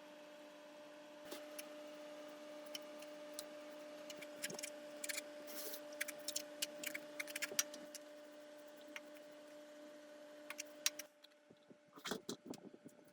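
Light clicks and taps of small hard objects being handled, over a steady hum that cuts off abruptly about eleven seconds in, after which a few sharper taps follow.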